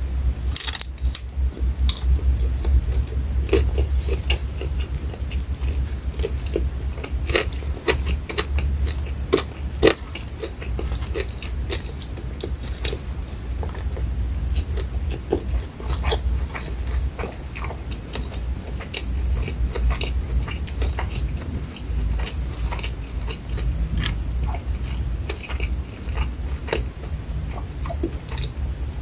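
Close-miked biting and chewing of fried shrimp, with many sharp, crackly crunches throughout over a steady low hum.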